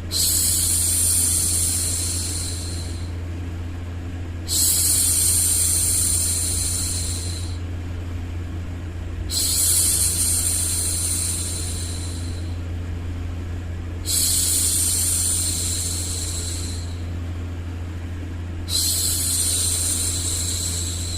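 A woman's voice making long, steady "shhh" hushing sounds, five times, each lasting about three seconds with a short gap between, over a steady low hum of white noise.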